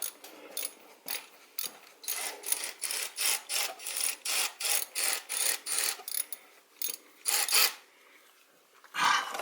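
Hand ratchet wrench being worked in a quick series of short strokes, about two to three clicking pulls a second, stopping near the end with one louder knock just after.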